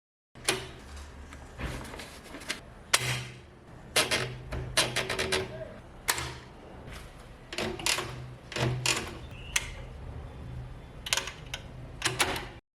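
Restored Facit manual typewriter being typed on: runs of quick, sharp key strikes clacking, with short pauses between the runs.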